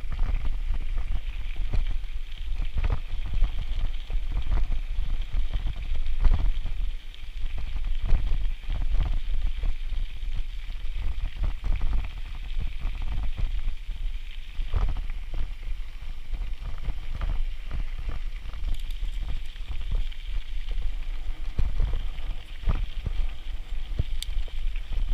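Wind buffeting the microphone with a steady low rumble, and frequent clicks and rattles from a bicycle rolling along a trail.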